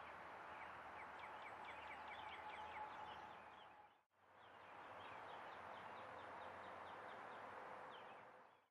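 Faint outdoor ambience: steady background noise with a bird singing fast series of short, falling chirps. The sound dips out for a moment about four seconds in and then returns.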